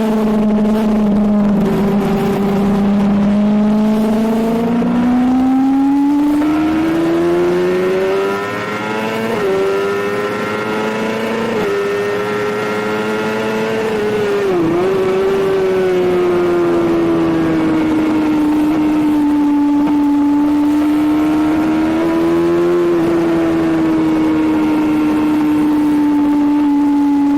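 Suzuki GSX-R750 K7 sport bike's inline-four engine running hard at high revs. Its pitch climbs over several seconds, is broken by two brief notches and a quick sharp dip, then settles to a steady high note.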